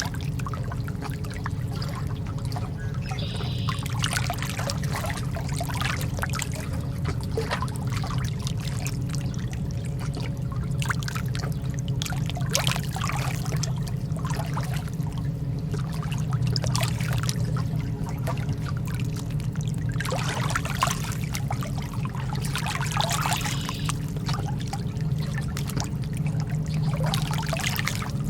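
Lake water lapping and trickling, with many small irregular splashes over a steady low wash.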